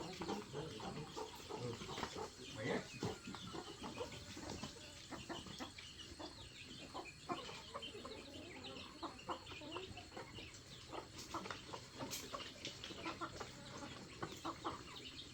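Chickens clucking on and off, with scattered small clicks and knocks.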